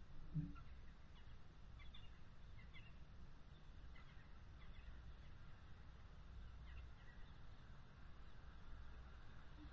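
Faint outdoor ambience: a steady low rumble with a few soft, high chirps of small birds scattered through it. There is one brief low thump about half a second in.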